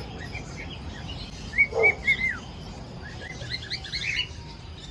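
Cockatiel chirping and whistling: a few short chirps, then three short held whistles about a second and a half in, the last one falling away, then a quick run of short rising chirps.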